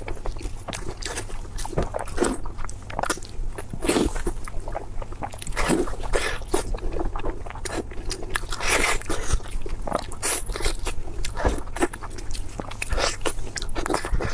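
Close-miked eating: biting into and chewing crunchy food, with many quick, irregular crunches and wet crackles.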